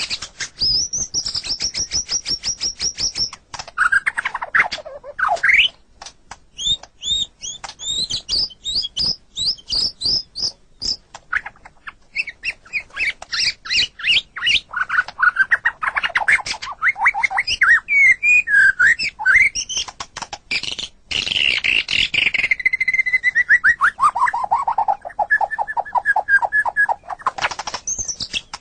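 White-rumped shama (murai batu) singing a long, varied song: fast repeated chip notes and trills alternating with loud whistled phrases that sweep up and down, including a long descending run near the end.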